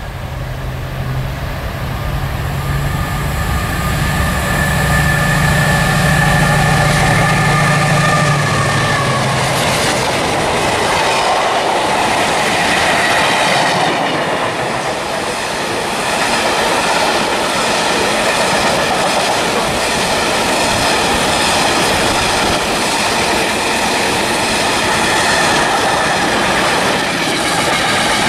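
Diesel-hauled freight train of spoil wagons passing close by. The locomotive's engine drones low for roughly the first ten seconds, then the wagons roll past with steady wheel rumble and clatter.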